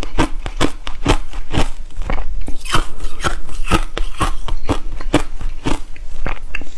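Someone biting and chewing refrozen crushed ice close to the microphone, with hard crunches coming steadily about twice a second.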